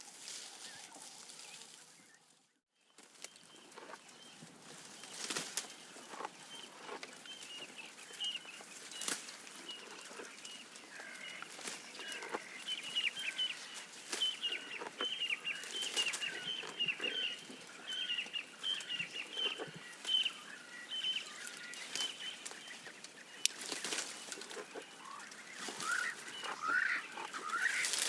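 Giraffe browsing: scattered crisp clicks and rustles of leaves being stripped and chewed. Birds chirp over it, with a long run of short repeated chirps through the middle and livelier calls near the end.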